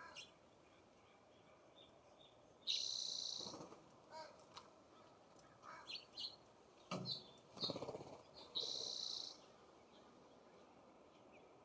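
Songbirds calling at a feeder: two loud, harsh, buzzy calls several seconds apart, with short high chirps between them and a couple of low rustling thumps near the middle.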